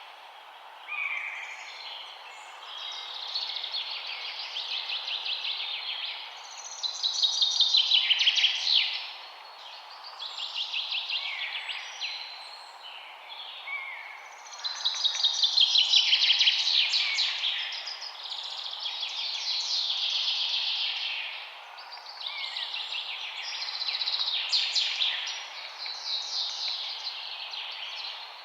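Songbirds singing: high trilling phrases follow one another every couple of seconds over a steady background hiss.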